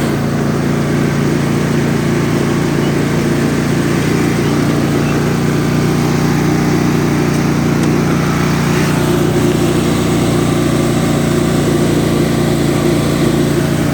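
Husqvarna riding lawn tractor's engine running steadily as the tractor drives along a trail.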